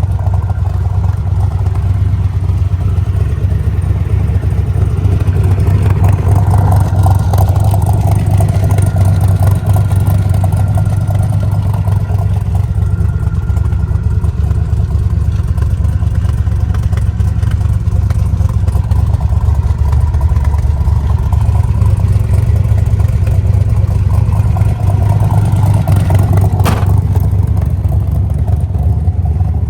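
A 427 big-block V8 with tri-power carburettors runs steadily through side exhaust pipes, its deep note swelling slightly now and then. A single sharp tick sounds near the end.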